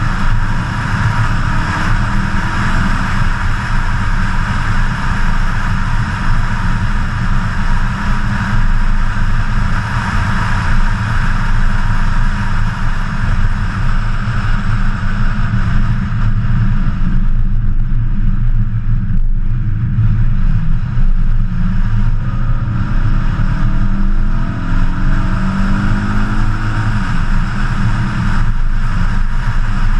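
BMW E92 M3's V8 engine running at road speed, with steady wind and tyre noise at a hood-mounted camera. Around two-thirds of the way through the engine eases off briefly, then its pitch climbs again.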